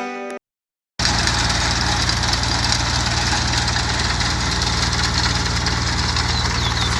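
Sickle-bar mower running steadily, starting about a second in: a low engine hum with a fast, even clatter from the reciprocating cutter bar.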